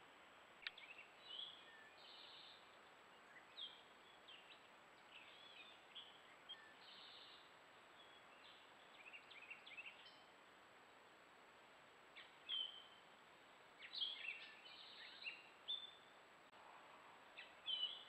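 Several birds calling and singing, short chirps and brief phrases coming and going over a faint steady hiss, busiest in the last few seconds.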